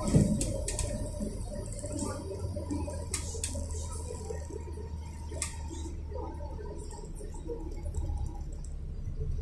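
Inside a city bus: the engine's steady low hum, with small scattered clicks and rattles from the cabin fittings. The louder vehicle noise of the seconds before has died down.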